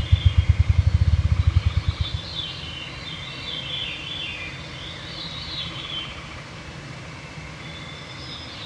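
Ruffed grouse drumming: deep, low thumps that speed up into a rapid flutter and die away about two seconds in.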